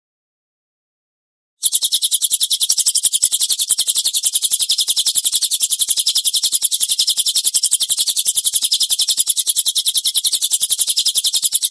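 Cililin bird's 'tembakan kasar', a rough, rapid-fire trill of high, sharp notes repeated many times a second in one unbroken run. It starts after about a second and a half of silence.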